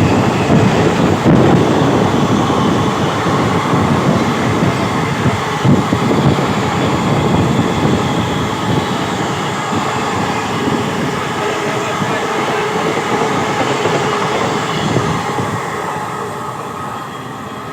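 Train running at speed on the rails, a dense continuous rumble and rattle of wheels and cars that gradually grows quieter toward the end.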